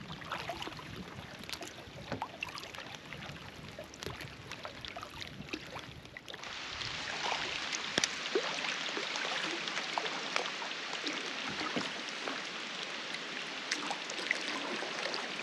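Rain falling on a lake's surface: a patter of many small drops. For the first six seconds it is lighter, with paddle strokes and a low wind rumble; then it steps up abruptly to a steady, louder hiss of heavier rain.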